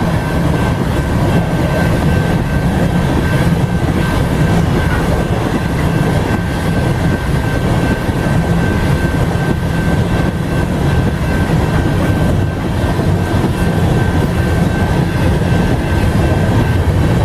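Freight train passing close by, its steel wheels rumbling and clattering on the rails in a steady, loud stream, with a thin high whine held throughout.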